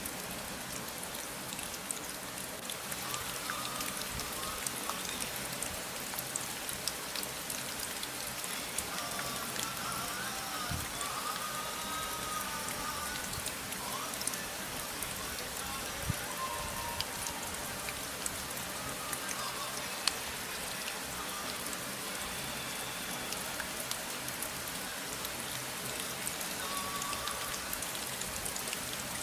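Steady rain falling, a dense patter of small drop impacts. A few faint wavering tones sound over it around the middle and again near the end.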